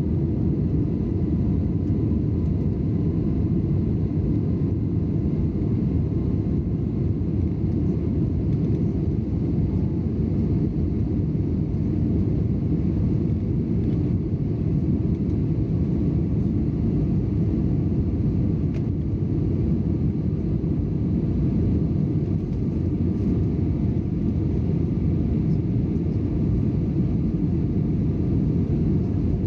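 Steady low rumble of an Airbus A320's engines heard inside the passenger cabin from a rear window seat. It holds even throughout, with a faint thin whine above it.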